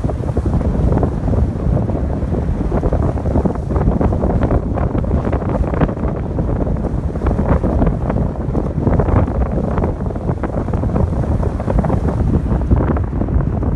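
Strong wind buffeting the microphone with a continuous low rumble, over ocean waves breaking on a beach, whose washing surf adds a crackling hiss.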